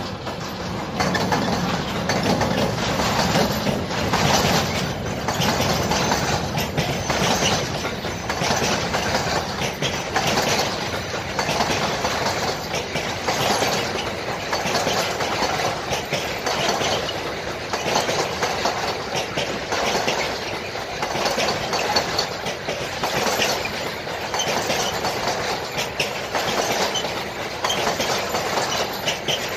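Freight train passing close by: an electric locomotive goes past at the start, then a long string of container flat wagons rolls by with a regular clickety-clack of wheels over the rails.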